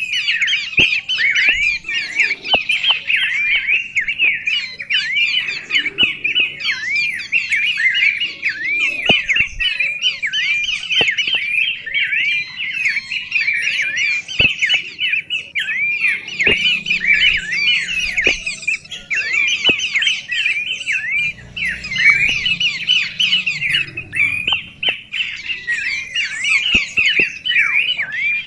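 Birds chirping in a continuous, rapid chatter of short falling notes that overlap one another without a break.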